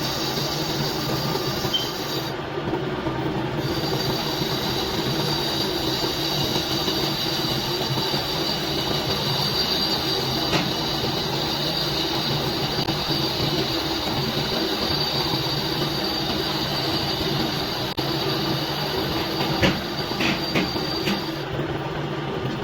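Metal-working machine running steadily with a constant high whine, typical of a lathe turning metal. A few short sharp clicks come near the end.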